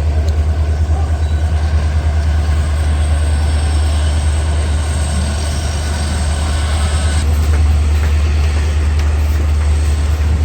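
Train locomotive engine running close by: a loud, steady, low throbbing rumble.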